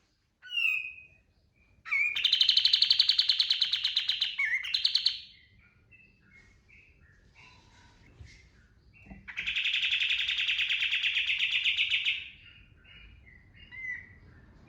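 Kapas tembak songbird singing. Short chirps and whistled notes come between two long, very rapid rattling bursts of song (its "tembakan"), each lasting about three seconds. The first starts about two seconds in and the second past the middle.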